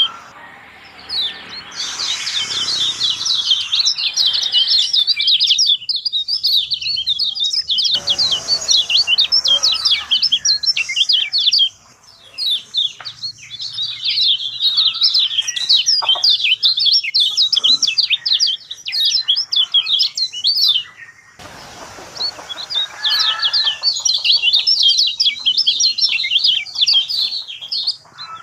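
Kecial kuning songbirds chirping and twittering in a dense, rapid stream of high notes, with brief pauses about twelve seconds in and again about twenty-two seconds in.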